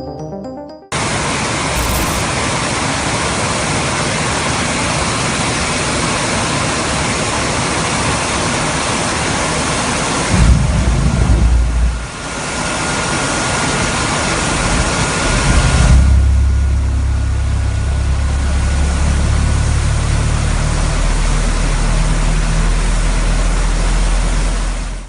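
Boeing 787's Rolls-Royce Trent 1000 turbofan running during an engine start: a loud, steady roar, with heavy low rumbles about ten seconds in and again from about sixteen seconds on.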